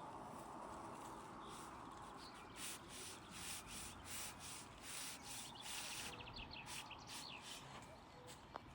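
Faint, irregular rubbing or scraping strokes over a few seconds, with a quick run of high bird chirps about six seconds in.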